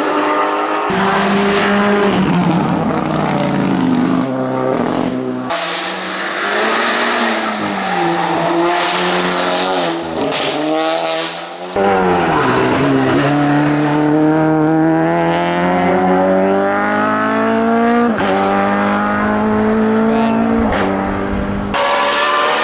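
Hillclimb race car engines at full throttle, heard in a series of short clips of different cars. Each engine climbs in pitch and then drops sharply at gear changes.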